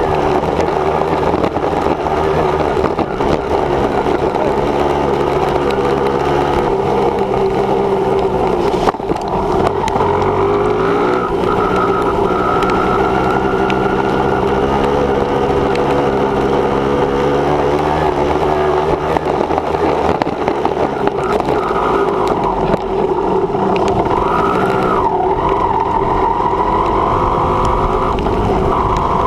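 Dirt bike engine running under way on a motocross ride, heard up close, its pitch rising and falling as the throttle changes.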